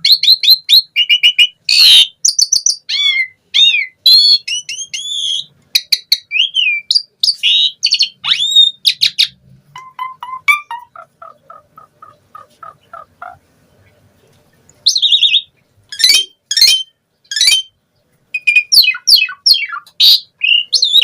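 Asian pied starling singing a rich, varied song of sharp whistles, rising and falling glides and clicking chatter. Partway through comes a stepped run of lower, falling notes, then a brief pause before more loud, sharp calls.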